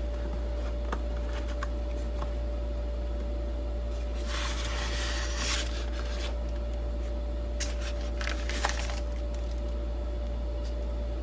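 Cardboard box and packaging being opened and handled: scattered clicks and rustles, with a longer rustle from about four to six seconds in. A steady low hum runs underneath.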